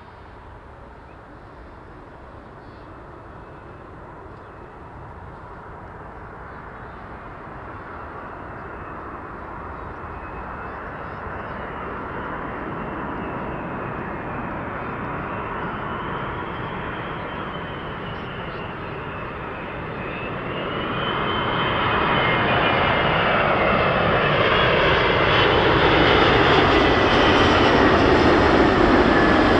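Airbus A380-800 on landing approach, its four jet engines growing steadily louder as it comes nearer, with a high whine that bends up and down in pitch. About two-thirds of the way in the noise steps up sharply and stays loud as the airliner passes close.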